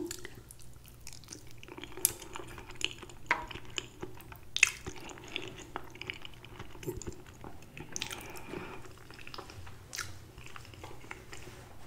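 A person chewing a mouthful of creamy chicken fettuccine alfredo close to the microphone: soft wet mouth sounds with irregular sharp smacks and clicks.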